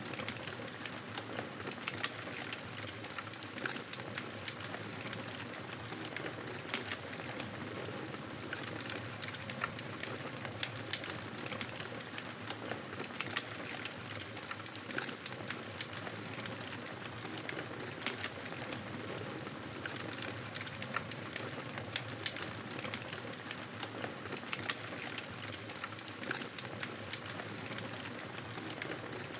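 Wood fire crackling: a steady hiss with frequent small pops and snaps scattered throughout.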